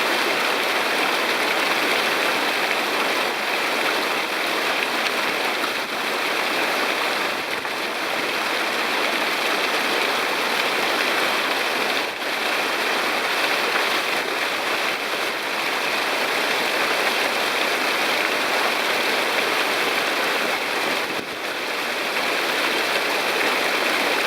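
Whitewater of a mountain creek rushing steadily.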